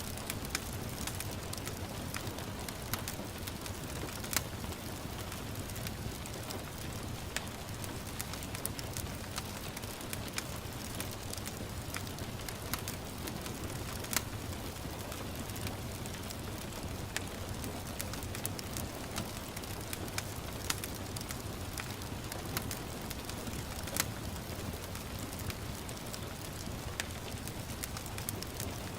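Wood fire crackling, with frequent irregular sharp pops, over a steady hiss of gentle rain.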